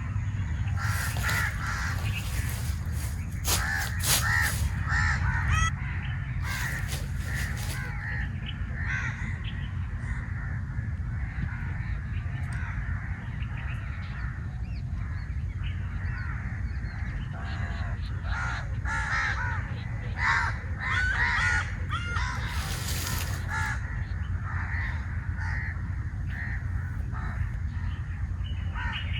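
Birds calling: many short repeated calls, busiest in the first several seconds and again about two-thirds of the way through, over a steady low rumble.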